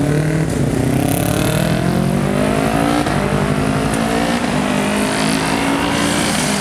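Honda CBR250RR's parallel-twin engine revving up with rising pitch, a short break about three seconds in, then rising again.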